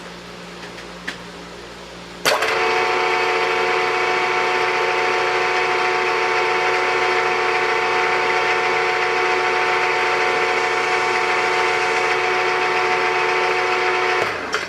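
The milling head of a 3-in-1 lathe-mill starts up about two seconds in, runs steadily with a whine of several fixed tones, and shuts off near the end.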